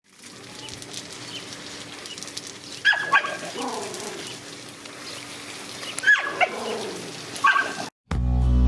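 Dogs barking sharply in short pairs, about three seconds in and again about six seconds in, with one more bark near the end, between yelping calls that fall in pitch.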